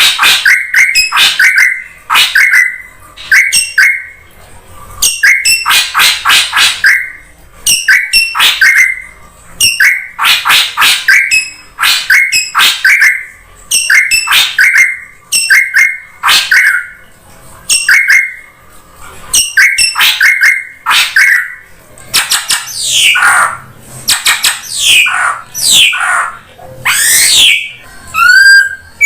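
Drongo calls on a bird-lure track: a harsh, rasping burst, each closed by a short whistled note, repeated every second or two. From about two-thirds of the way in the calls change to quick falling and rising whistled sweeps.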